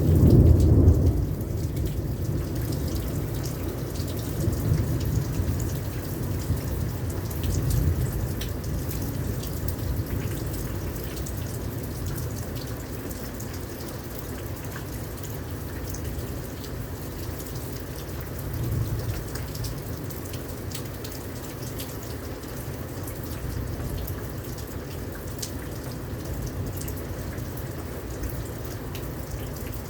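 Steady rain pouring down, with scattered individual drops. A low rumble of thunder dies away in the first two seconds, and fainter rumbles come twice later.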